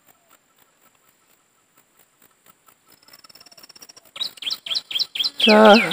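Near silence, then a bird calling: a fast high trill about three seconds in, followed by a run of quick down-slurred chirps.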